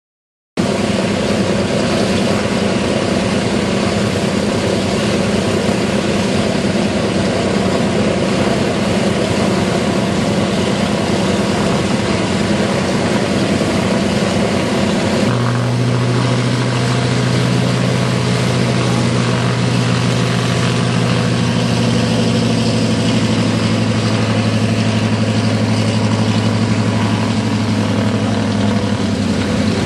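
A Douglas DC-3's radial piston engines running steadily on the ground. About halfway through, a deeper, stronger drone sets in and holds.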